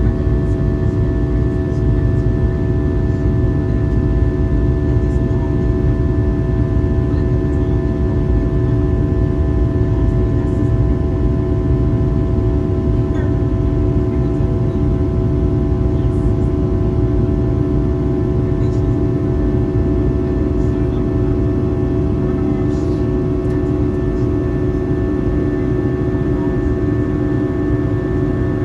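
Steady cabin noise of a Boeing 737-800 in flight: a constant low roar from its CFM56 turbofan engines and airflow, with several steady whining tones over it.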